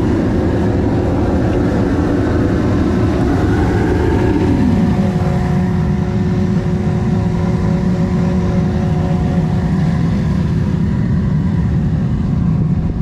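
Homemade crucible furnace burner running with a steady, loud roar. About four seconds in, its pitch drops and then settles into an even hum with a faint steady whine on top.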